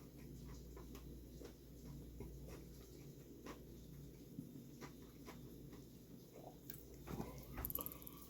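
Faint chewing and small wet mouth clicks of a person eating sauced chicken legs, a little busier near the end.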